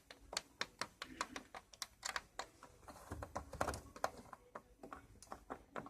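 A run of irregular light clicks and taps, several a second, with a few duller knocks about three to four seconds in.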